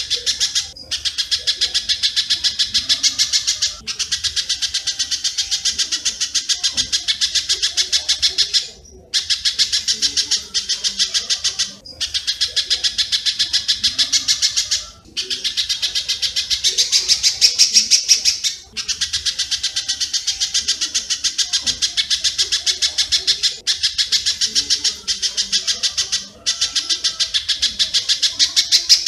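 Recorded bird calls from a spiderhunter and swiftlet lure track: rapid, evenly repeated chirps of about ten a second, in runs of a few seconds broken by short pauses.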